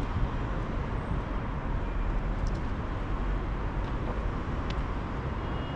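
Steady outdoor background noise with a low rumble, typical of road traffic, and a few faint ticks.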